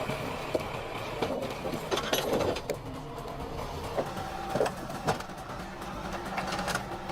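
Heavy machinery running, with a steady mechanical din broken by irregular clattering knocks and clicks.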